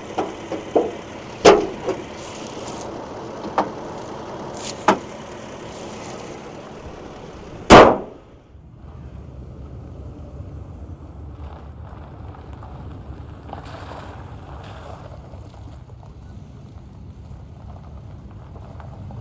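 A few clicks and knocks from the pickup truck's doors and latches being closed, then a door slammed shut hard about eight seconds in. After the slam comes a steady low rumble of the truck's engine idling.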